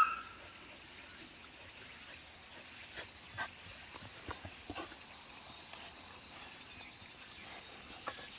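A Jindo dog gives one short, high whine at the very start, then only a few faint scattered taps and rustles over a low steady hiss.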